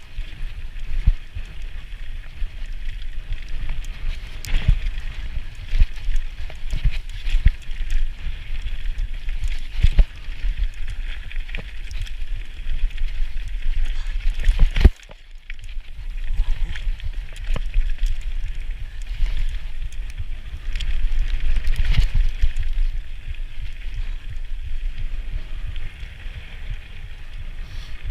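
Mountain bike ridden down a dirt trail: wind rush on the microphone and tyre rumble, with frequent rattling knocks over bumps. A sharp knock about halfway is followed by a second or so of near-quiet before the rumble returns.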